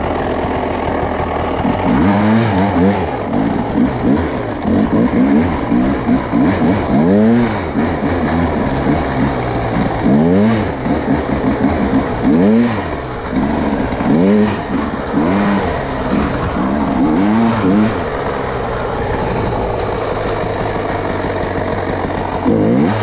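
Off-road vehicle engine being ridden, its revs rising and falling over and over as the throttle is worked. For the last few seconds it holds a steady note.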